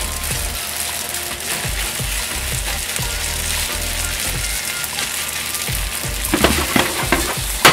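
Curry-coated spaghetti sizzling steadily as it fries in a frying pan, stirred with wooden chopsticks. A few sharp knocks near the end, the loudest at the very end.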